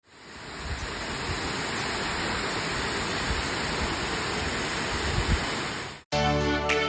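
Waterfall rushing steadily, fading in at the start. It cuts off suddenly about six seconds in and background music begins.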